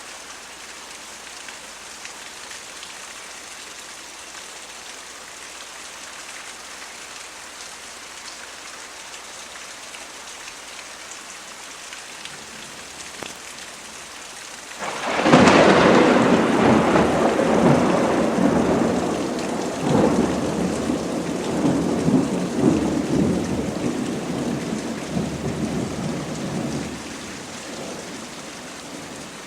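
Steady rain falling, with a thunderclap about halfway through: a sudden loud crack that rolls on as rumbling thunder in several surges for about ten seconds before fading back under the rain.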